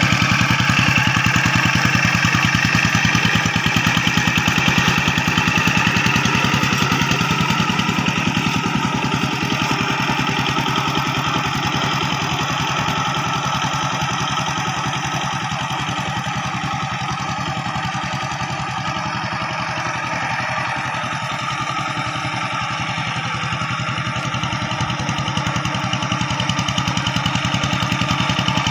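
Rice field tractor engine running steadily while tilling the paddy, easing off a little in the middle and picking up again near the end.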